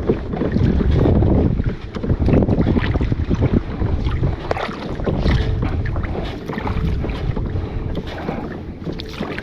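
Wind buffeting the microphone over water sloshing and splashing against a kayak hull, with a few small knocks.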